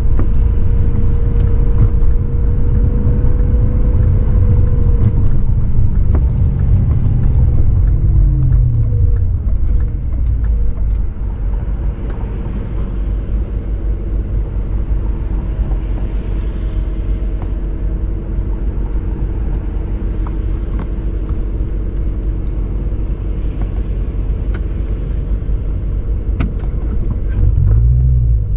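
2003 BMW 540i's 4.4-litre V8 engine and exhaust with the car under way. The engine note drops as the car slows about eight seconds in, runs low and steady for a long stretch, then climbs again near the end as it starts to accelerate.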